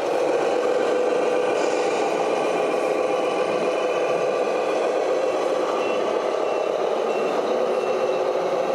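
Radio-controlled model truck's sound module playing a running diesel engine, with a short series of high reversing beeps about six seconds in.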